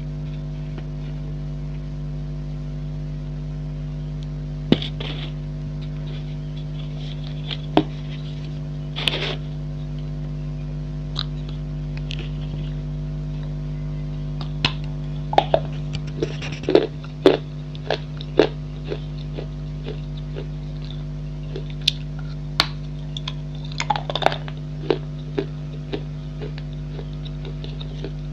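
Pieces of a baked clay pot bowl being bitten and chewed: scattered sharp, crisp crunches, bunched in short runs in the second half. A steady low hum sits underneath.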